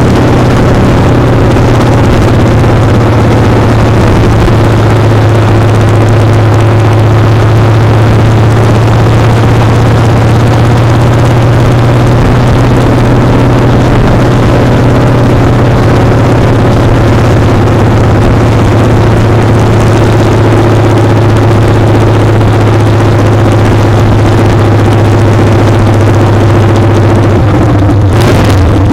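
Motorcycle engine running hard at a steady speed, loud and close from a foot-peg-mounted camera, with road and wind noise over it; the engine note shifts near the end.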